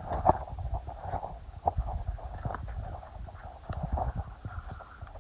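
Wild boars grunting and moving through the undergrowth, with short irregular cracks and rustles among the rough grunts, easing off toward the end.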